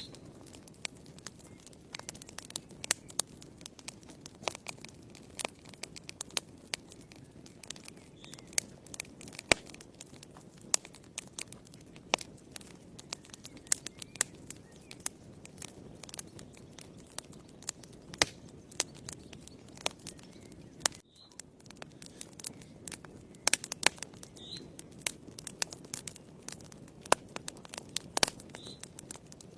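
Wood fire burning in a fireplace: irregular sharp crackles and pops over a low, steady rush of flames, with a brief drop in sound about two-thirds of the way through.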